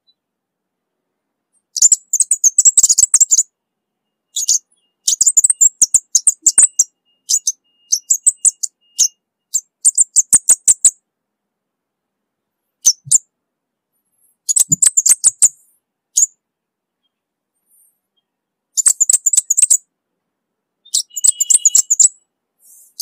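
Orange-bellied flowerpecker (cabai bunga api) calling: about eight bursts of rapid, very high-pitched ticking chirps, each a second or two long, with silent gaps between.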